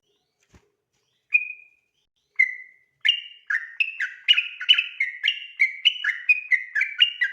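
Yellow-vented bulbul (trucukan) singing: two single whistled notes, then about three seconds in it breaks into its fast, bubbly 'ropel' run of notes jumping up and down in pitch.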